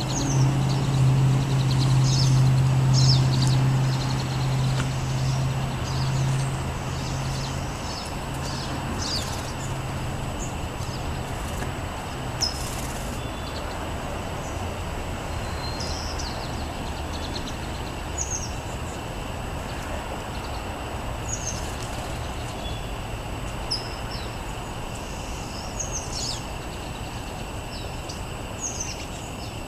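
Small birds chirping, short high calls coming every second or two, over a steady background of distant traffic noise. A low engine hum is loudest at the start and fades away over the first several seconds.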